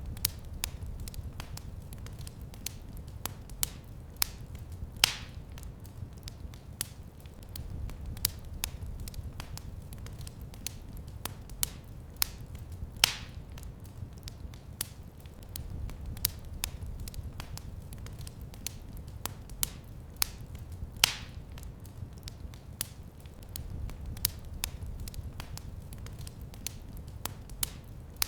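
Fireplace fire crackling: many small sharp snaps over a low steady rumble, with a louder pop about every eight seconds.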